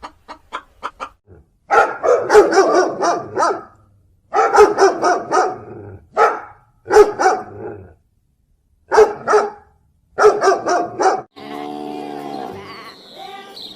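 A dog barking in repeated bouts of quick, loud barks, with pauses of about a second between bouts. Near the end a low, drawn-out call begins.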